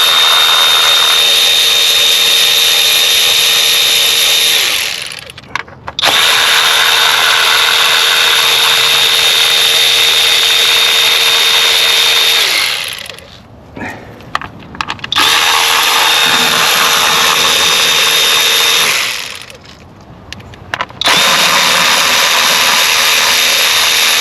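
A cordless power tool spins out the 10 mm bolts that hold the ignition coils on a 3.6 L V6. It makes four long runs of steady, high motor whine, each several seconds long, and each winds down before a short pause.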